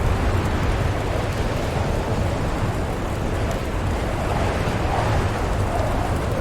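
Howling storm wind blowing steadily over a deep low rumble, with a wavering howl rising out of it near the end.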